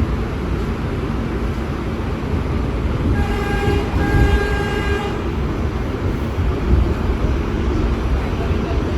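New York subway train running with a steady rumble, and a train horn sounding twice in quick succession about three seconds in, the two blasts lasting about two seconds together.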